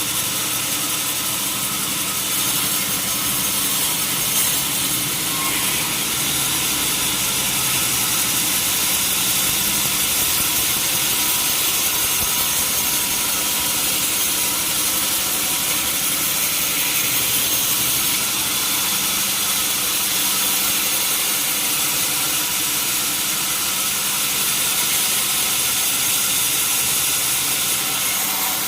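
Sawmill machinery running steadily: a constant mechanical hum with several unchanging tones under a dense high hiss.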